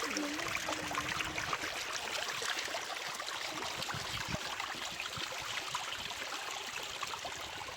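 Steady rushing noise of running water, like a stream, with scattered small ticks and clicks throughout.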